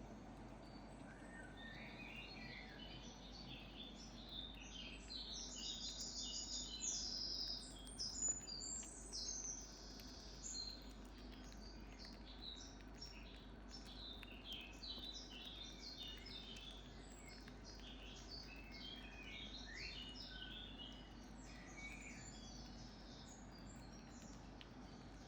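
Small birds chirping and twittering in many short high notes, busiest and loudest about five to ten seconds in, over a steady faint background hiss.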